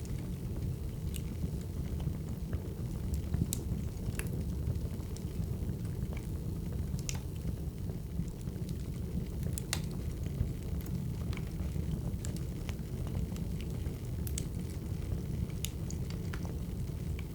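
Wood fire crackling: a steady low rumble with irregular sharp pops and snaps from burning firewood.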